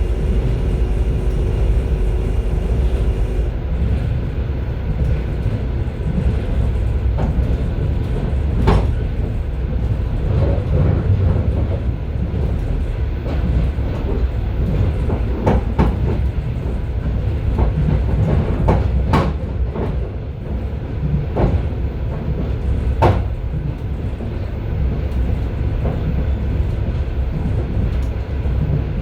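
Passenger railway car running, heard from its vestibule: a steady low rumble of wheels on track, with irregular sharp clacks as the wheels cross rail joints and points. A steady hum stops a few seconds in.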